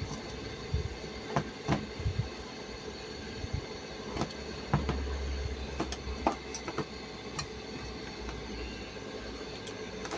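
A steady hum with scattered sharp clicks and knocks, about seven of them, and a brief low rumble about halfway through.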